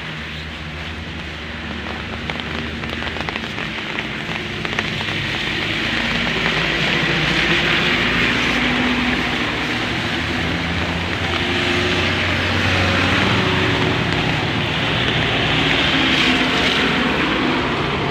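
Heavy rain hissing steadily, with a motor vehicle's engine running underneath, its pitch shifting up and down. The rain grows louder about six seconds in.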